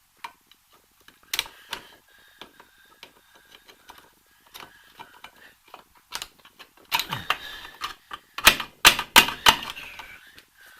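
Metal brake parts clicking and clinking as a drum brake assembly is worked on by hand, scattered light ticks at first, then a run of sharper metallic knocks and rattles in the last few seconds.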